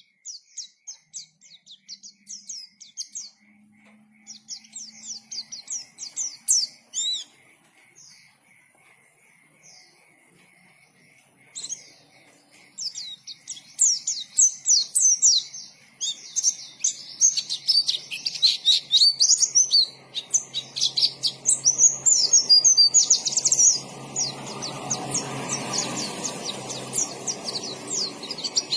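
White-eye (pleci) singing in rapid high chirps and twittering phrases. The song comes in short bursts with pauses at first, then runs dense and unbroken from about halfway. A low background rumble rises under the song in the last third.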